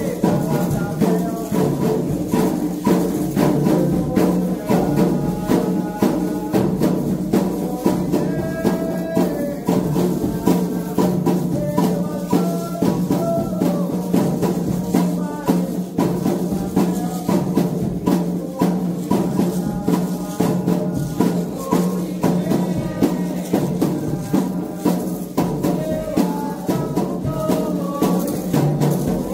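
Candomblé ceremonial music: atabaque hand drums and rattles played in a steady, fast rhythm, with voices singing over them.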